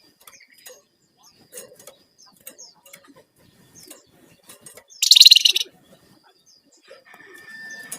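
Flamboyan (wergan jawa) songbird singing: scattered short chirps, a loud harsh rattling burst about five seconds in, and a held whistled note near the end.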